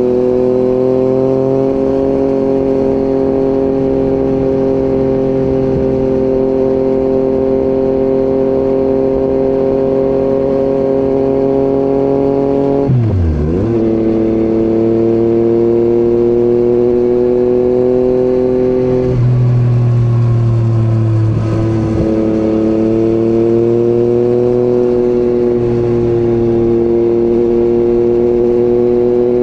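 Yamaha MT-09's inline three-cylinder engine running at a steady cruising pitch under way. About halfway through, the pitch drops sharply and climbs straight back, as in a quick throttle roll-off or gear change, and it shifts again a few seconds later.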